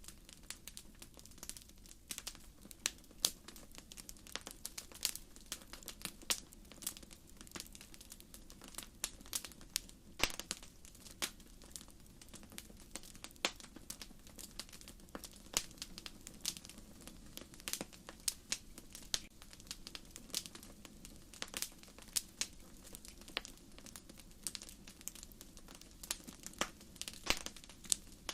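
Wood fire crackling: logs popping and snapping in quick irregular clicks, a few louder pops among them, over a soft steady hiss of flame.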